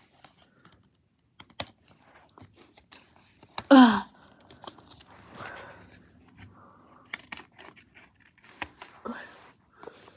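Scissors cutting paper: scattered snips with paper rustling and crinkling. A short vocal sound, falling in pitch, about four seconds in is the loudest thing.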